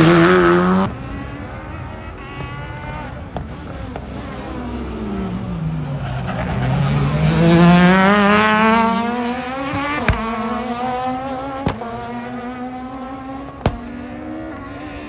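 Rally car engine dropping in pitch, then accelerating hard and climbing through the gears, loudest about eight seconds in. Three sharp cracks come in its last few seconds.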